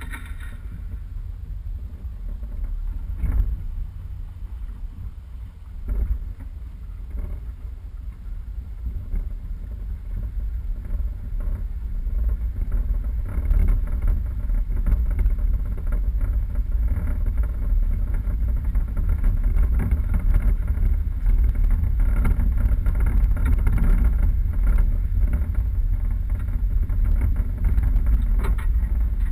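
A 4x4 being driven off-road, with a steady low rumble from the engine and the rough ground. Two knocks come a few seconds in, and the rumble grows louder about halfway through.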